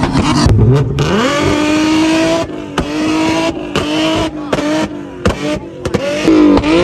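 Car engine revving hard. Its pitch climbs about a second in, then stays high with repeated brief dips and sudden cut-outs.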